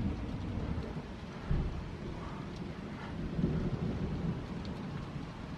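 Thunder rumbling low and rolling on, starting suddenly and swelling louder twice, about one and a half and three and a half seconds in.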